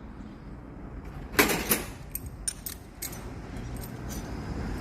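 Metal parts and hand tools clinking and rattling as a starter motor is taken apart on a bench. There is a loud burst of rattling about a second and a half in, then a few lighter clicks.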